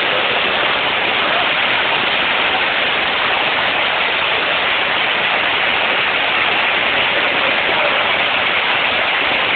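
Muddy floodwater rushing down a street like a waterfall: a loud, steady roar of water.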